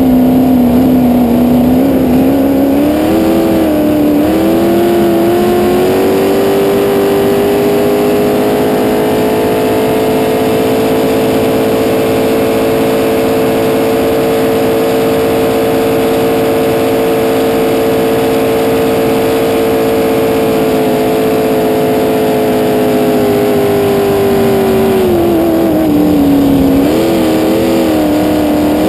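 V8 race-boat engine running on E85 with fuel injection, at high revs. The revs waver at first, climb about five seconds in, hold steady for most of the run, then drop back near the end and waver again.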